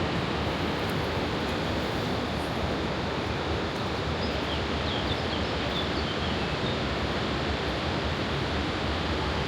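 Steady, even rush of the Rhine Falls' water. A few faint high chirps come about five seconds in.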